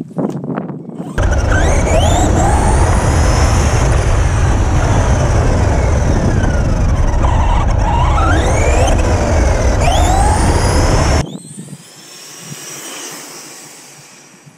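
Electric motor and drivetrain of an RC truck running on a 3S lipo, whining up and down in pitch as it speeds up and slows down, under heavy wind rumble on the microphone. The loud part starts abruptly about a second in and cuts off about 11 seconds in, leaving a fainter whine.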